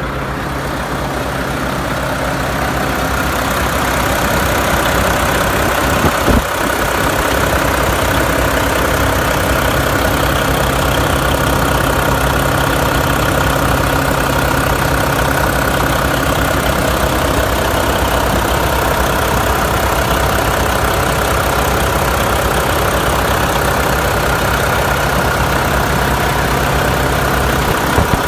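A 2012 Mack CXU613's Mack MP8 inline-six diesel engine idling steadily, getting louder over the first few seconds. There is a single sharp knock about six seconds in.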